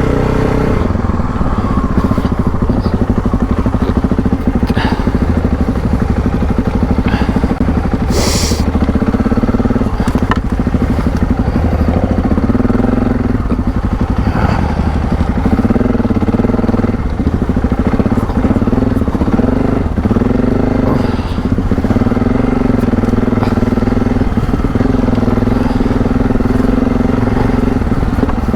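Adventure motorcycle's engine running off-road, its pitch rising and falling with the throttle. Occasional short knocks and crackles are heard over it.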